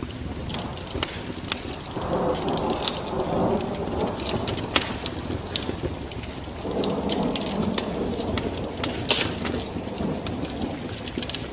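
A wood fire crackling, with many sharp pops and snaps throughout. Twice there is a longer, softer swell of lower sound beneath it, lasting a few seconds each.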